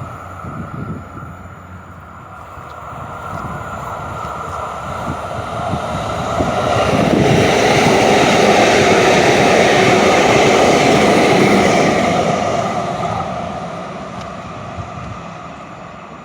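A vehicle passing by: a rumbling noise swells over several seconds, stays loud for about five seconds in the middle, then fades away.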